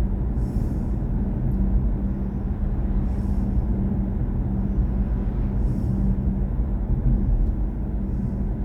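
Steady road and tyre rumble inside the cabin of a BMW i4 M50 electric car on the move, with a low steady hum.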